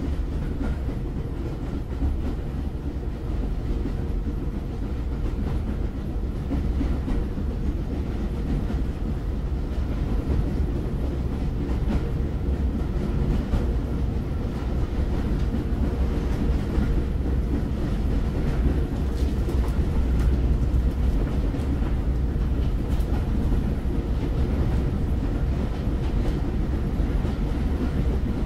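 A moving train's low rumbling, steady and deep, with a few faint rail clicks, growing slowly louder as it picks up after departure.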